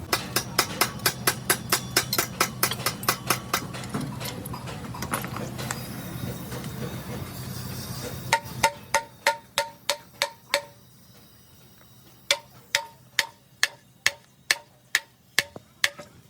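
Hammer striking metal in quick even blows, about three to four a second. After a short break, more runs of blows, each with a clear metallic ring.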